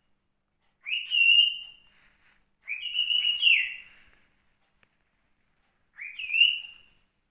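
Male white cockatiel whistling its song in three short phrases, each a quick upward slide into a held high note.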